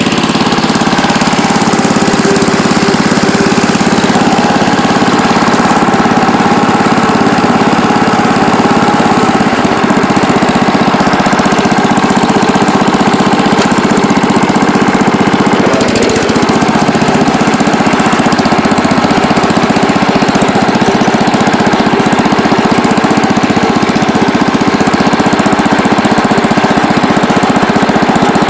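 Allis-Chalmers Big Ten garden tractor's single-cylinder Briggs & Stratton engine running steadily, with a brief dip in speed and recovery about sixteen seconds in. It is running well, its carburetor cleaned and governor adjusted.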